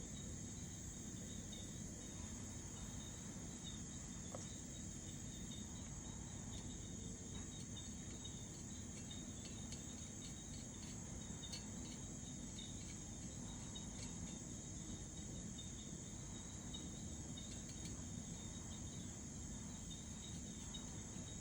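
Steady, unbroken insect chorus, high-pitched and continuous, over a low steady rumble.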